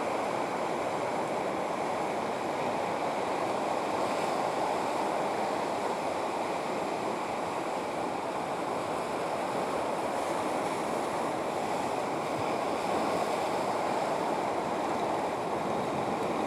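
Steady rushing of sea water and wind, without a distinct engine tone or any sudden sounds.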